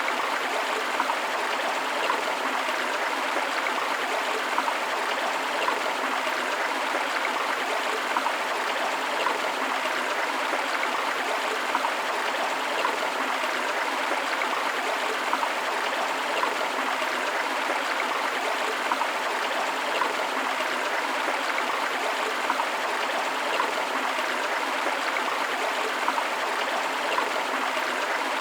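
River water flowing steadily over rocks, an even rush with small splashes every second or so.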